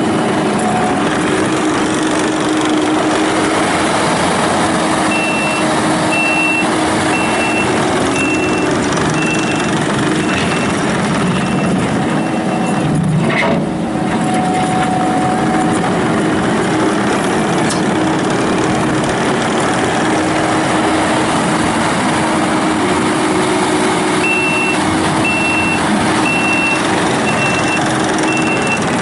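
Diesel engine of a Kubota SVL95-2S tracked skid steer loader running steadily, with its backup alarm beeping about once a second while the machine reverses, twice over. A brief knock about halfway through.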